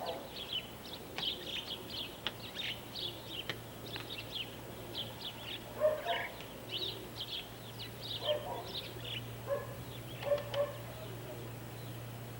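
Small birds chirping continually in short, quick high notes. A few louder, lower animal calls break in at about six, eight and ten seconds in.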